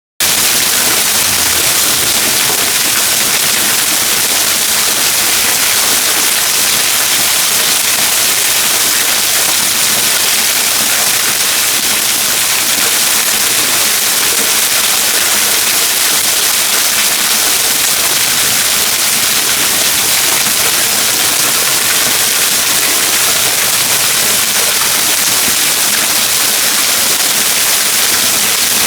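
Waterfall rushing, a loud, steady, even roar of falling water with no change.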